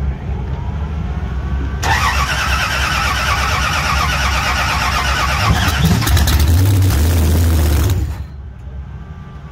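The drag car's engine being cranked over by its starter for about six seconds in an attempt to start it, then stopping abruptly without the engine staying running. A steady low engine rumble sits underneath.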